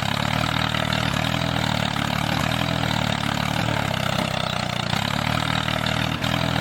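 A DIY mini tractor's small motor running steadily, with a low, evenly pulsing hum.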